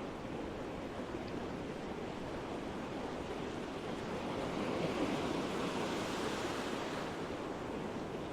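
Ocean surf washing onto a beach, a steady rush of water with one wave swelling louder about halfway through before easing off.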